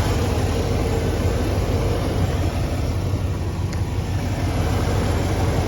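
Ford F-150's fuel-injected 5.0 V8 idling steadily.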